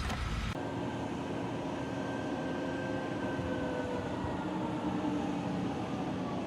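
A machine running steadily, a even mechanical noise with a few faint held tones that sag slightly lower in pitch, starting abruptly about half a second in.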